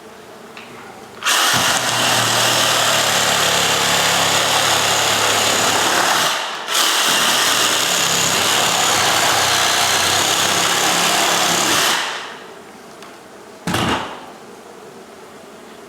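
An electric power tool runs loud and steady for about five seconds, stops briefly, then runs about five seconds more. A short knock follows near the end.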